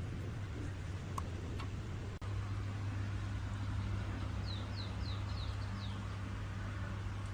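A steady low mechanical hum that drops out for an instant about two seconds in, then carries on a little louder. Near the end a bird gives a quick series of about six short falling chirps.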